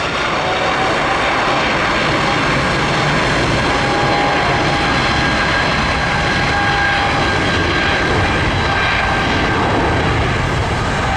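Jet airliner's twin turbofan engines at takeoff thrust: a loud, steady roar with a high whine held on top of it.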